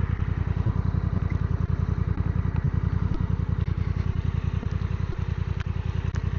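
Motorcycle engine idling at a standstill, an even, rapid low pulsing.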